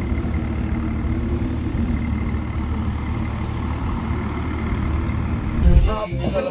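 Tractor engine running steadily with a low rumble. Near the end there is a loud thump, and music starts.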